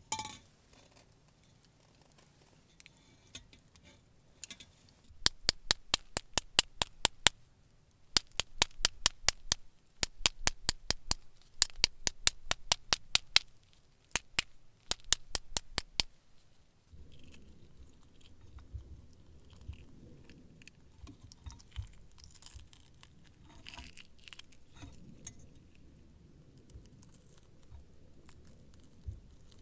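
Knife chopping rapidly on a cutting board in several bursts of quick, sharp strikes, about five a second, followed by quieter handling and rustling sounds.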